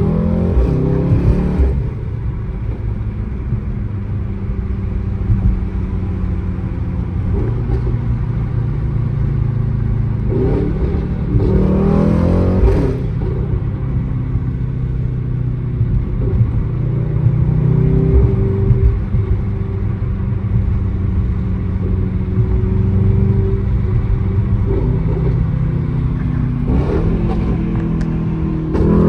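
Mercedes-AMG GT63 S's twin-turbo 4.0-litre V8 running through a straight-piped custom exhaust, cruising steadily. The engine note rises under acceleration at the start, again around twelve seconds in, and near the end.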